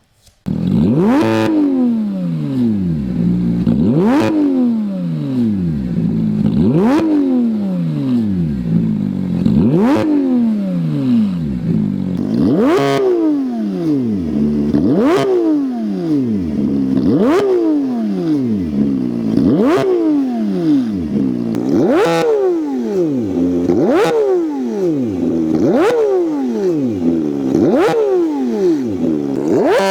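Porsche 911 GT3 (991.1) 3.8-litre naturally aspirated flat-six exhaust, revved again and again. Each rev shoots up quickly in pitch and falls away more slowly, about thirteen in all. The recording is played faster in steps, so the later revs come quicker and peak higher.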